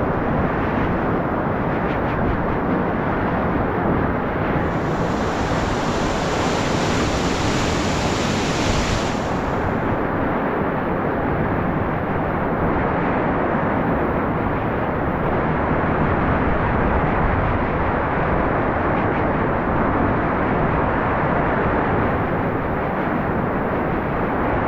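Steady, loud rush of river whitewater around the raft. It turns brighter and hissier between about five and nine seconds in.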